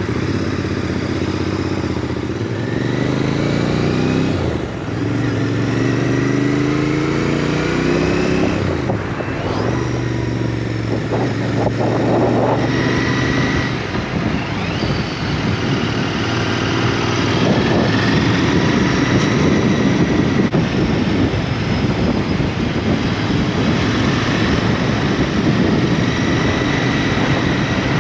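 Motorcycle engine heard while riding, rising in pitch several times in the first half as it accelerates, then holding a steady drone, under a constant rush of wind and road noise.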